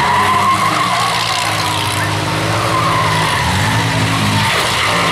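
Several minivan engines revving up and down during a demolition derby, with a wavering high squeal over them, like tires spinning and squealing.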